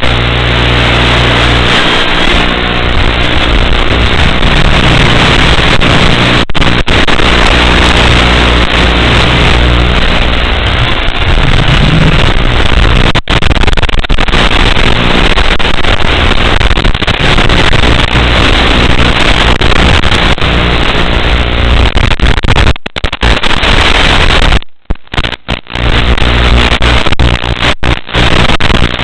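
Loud, steady buzzing static recorded through FPV goggles, with a hum in the first few seconds; the audio cuts out briefly several times near the end.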